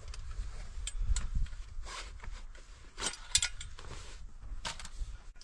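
Scattered light clicks, knocks and rustling from things being handled, over a low rumble.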